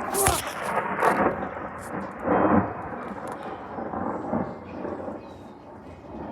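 Thunder: a sudden clap that rolls on in several loud swells over the first few seconds, then eases into a lower rumble.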